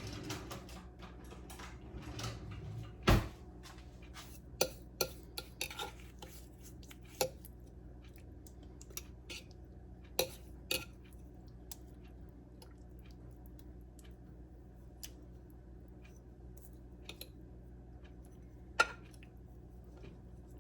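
Kitchen utensils and dishes clinking and knocking against each other in scattered sharp strikes, the loudest about three seconds in, with a few more spread through the rest.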